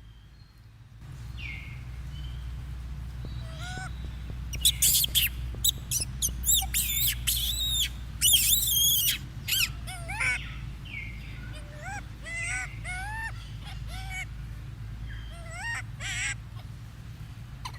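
A monkey squealing and chirping in a run of short, high-pitched calls, loudest in a dense burst partway through, followed by a string of short rising calls. A steady low hum sits underneath.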